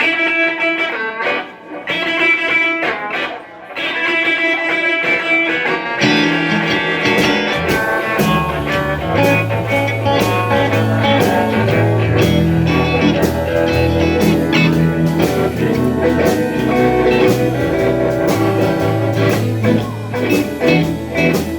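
Live blues band playing a song's instrumental intro: a guitar alone for the first six seconds or so, then drums come in, with a bass line joining a couple of seconds later.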